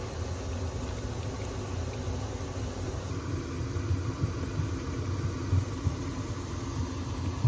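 A steady low mechanical rumble, like a running engine or machine, with small irregular bumps and one sharp thump at the very end.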